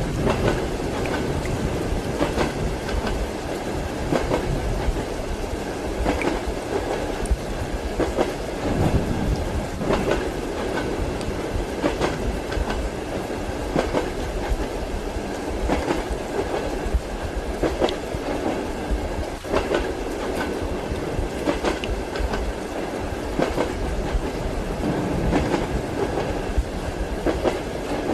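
Train wheels clacking over rail joints in a regular beat, roughly every two seconds, over the steady rumble of a moving railway carriage.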